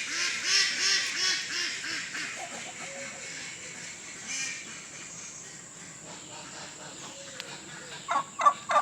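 A turkey calling: first a run of repeated notes, about three a second, then quieter calls. Near the end a loud, rapid rattling gobble begins.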